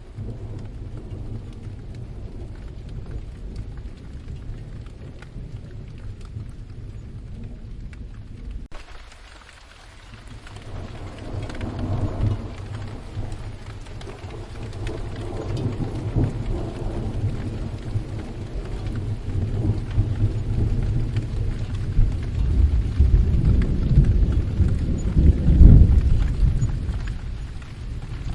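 Steady rain with rolling thunder. After a brief lull about a third of the way in, low rumbles swell several times, the loudest about three quarters through, then fade.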